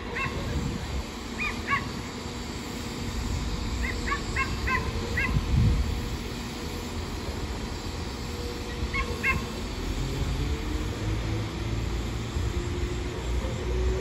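Class 195 diesel multiple unit pulling away, its engine note rising steadily in pitch over the second half over a low rumble. Short high yelping calls come in small clusters about four times.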